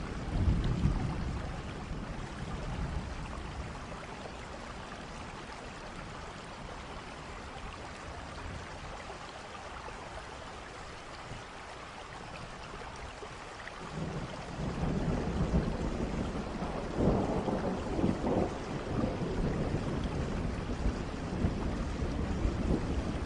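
Steady rain falling, with a short rumble of thunder near the start. A longer roll of thunder builds from just past halfway and runs on to the end, loudest a few seconds after it begins.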